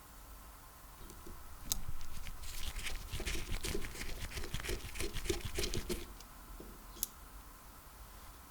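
Hand work on an old electric drill being taken apart: a sharp click, then a few seconds of rapid clicking and rattling of parts, and one more sharp click near the end.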